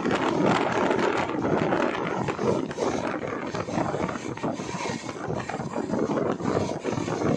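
Passenger train running at speed: a steady, loud rumble of wheels on the rail with fine irregular rattling.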